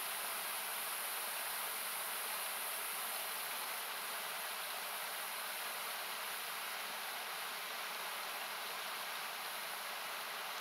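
Steady rushing of a nearby river or waterfall, a continuous hiss whose low end has been cut away by equalization.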